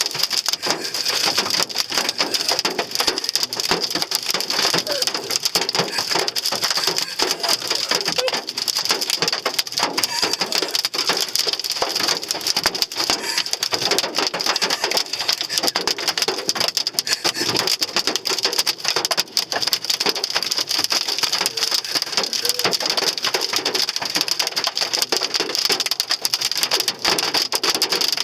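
Hailstones pelting the body and glass of a Hyundai Sonata in a heavy hail storm: a dense, unbroken rattle of hard impacts with no let-up. This is the hail that left the car badly dented.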